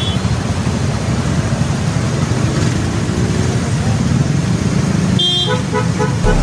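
Road noise from riding a motorcycle: a steady rumble of engine and wind on the microphone. A vehicle horn honks briefly about five seconds in.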